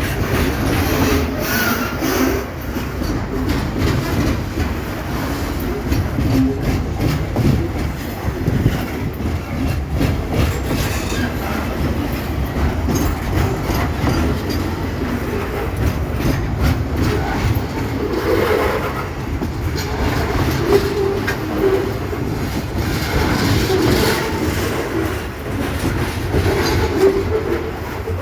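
Freight train wagons rolling past, their wheels clattering over the rail joints in a steady run of clicks, with short bursts of wheel squeal now and then.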